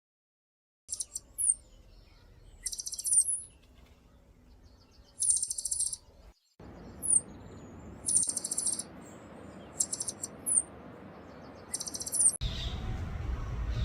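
Small birds singing high-pitched phrases that start about a second in: short, rapid chattering trills alternating with quick down-slurred notes, repeated every second or two.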